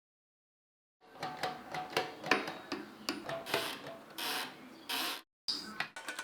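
Small metal parts of an old Facit typewriter's mechanism worked by hand: a quick run of clicks, ticks and scraping, with a few brief bursts near the end that start and cut off abruptly.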